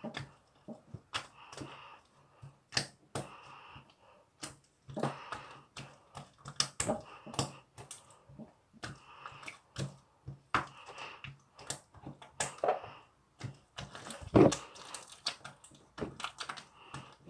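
Slime being squished and stretched by hand, giving irregular sharp clicks, pops and short squelches.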